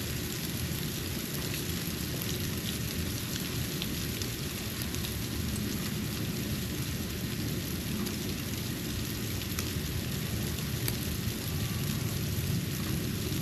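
Falling snow: a steady hiss with faint scattered ticks of flakes landing, over a low, steady rumble.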